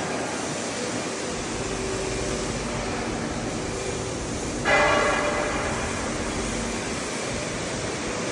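Steady machine noise of a metal-cutting workshop, with one loud ringing metallic clang a little over halfway through that fades over about a second.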